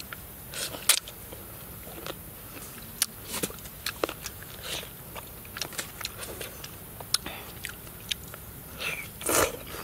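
A person chewing and biting cooked catfish close to the microphone, with a scattered string of short wet mouth clicks and smacks. Near the end comes a longer, louder noisy sound.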